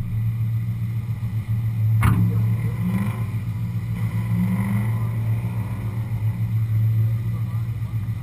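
Muscle car engines running nearby with a steady low rumble. A sharp click about two seconds in.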